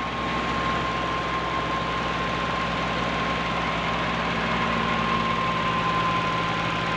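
Fiat 480 tractor's three-cylinder diesel engine running steadily under load, driving a thresher, with a steady high whine over the even rush of the machinery. The engine sounds healthy and in good order.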